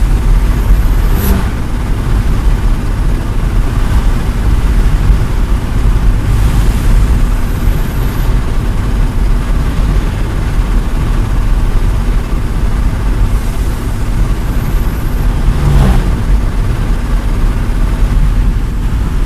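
Heavy truck engine running steadily and loudly. There is a brief knock about a second in and another near the end.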